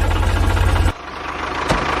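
Tractor engine idling with a steady chugging beat. It cuts off abruptly about halfway through, then after a sharp click it runs on steadily again.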